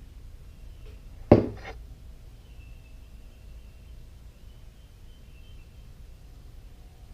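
A sharp knock about a second in, followed at once by a lighter one, from starter parts or a tool being handled on the workbench during reassembly.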